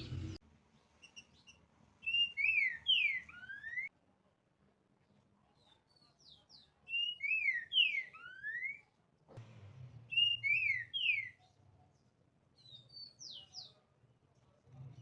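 Green-winged saltator (trinca-ferro) singing: three phrases of whistled notes, each a quick run of mostly downward-sliding slurs, then a short fourth phrase near the end.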